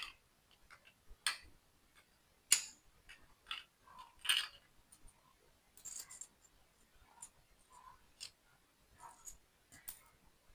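Small plastic building-block pieces being handled and pressed together: scattered light clicks and short rustles, the sharpest about two and a half seconds in and another just after four seconds.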